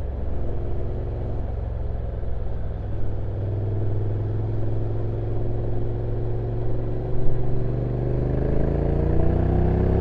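Honda NC750X DCT's parallel-twin engine on its stock exhaust, running low and steady while riding downhill. Near the end its pitch rises as the bike accelerates.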